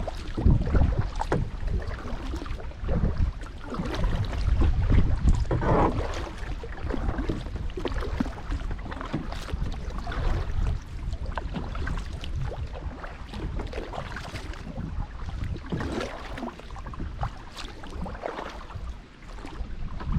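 Wind buffeting the microphone on a kayak, gusting hardest in the first several seconds, with irregular splashes and drips of water from paddle strokes.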